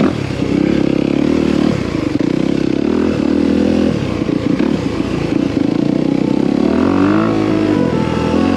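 Four-stroke dirt bike engine being ridden, its revs rising and falling repeatedly as the throttle opens and closes, with knocks and rattles from the bike over rough ground.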